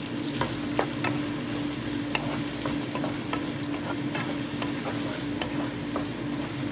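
Diced sausage, onion and garlic sizzling in hot oil in a nonstick frying pan, stirred with a wooden spoon, with frequent small pops and spatters.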